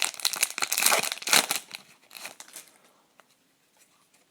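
A plastic wrapper on a pack of hockey trading cards crinkles and tears as the pack is opened, densely for about a second and a half. A few softer rustles follow about two seconds in.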